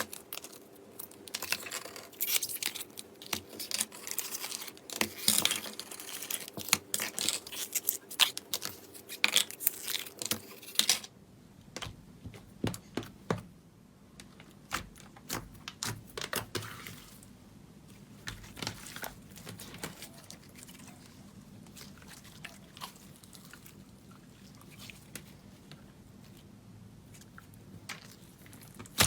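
Slime being squeezed and pressed by hand close to the microphone, with dense crackling clicks and pops. About 11 seconds in, the sound changes abruptly to quieter, sparser sticky pops.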